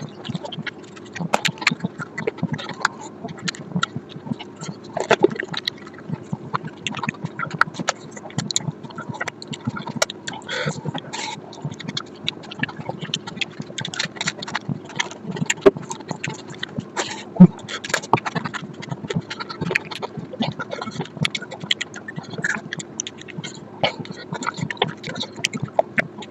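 Close-miked eating sounds: a person chewing mutton fat curry with rice, with a steady run of wet lip-smacks and mouth clicks, one sharper click about two-thirds of the way through.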